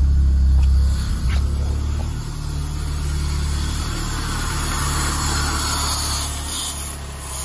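Honda K24A2 inline-four engine idling steadily in an EP3 Civic, with a light hiss over the low hum, which the owner takes for a vacuum leak. The low rumble drops about a second in, with a few faint clicks.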